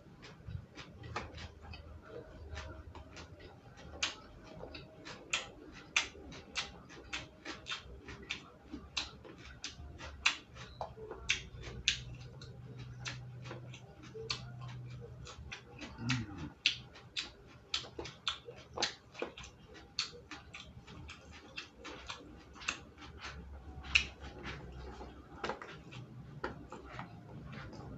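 Close-up mukbang eating sounds: a person chewing and smacking, heard as an irregular run of sharp clicks, a couple each second.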